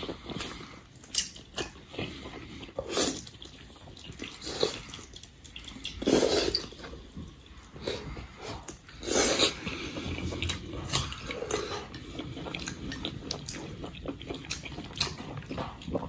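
Close-up wet chewing and slurping of spicy beef tendon, with many short smacking clicks from the mouth and two louder slurps about six and nine seconds in.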